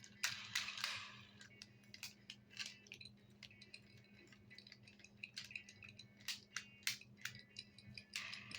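Toy construction vehicles being handled: irregular clicks, clinks and rattles of the toys knocking together, busiest near the start, over a faint steady hum.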